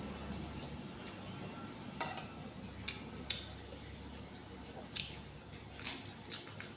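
Cutlery clicking and tapping against a dish eight or so times at irregular intervals during a meal of instant noodles, the loudest clink a little before the end.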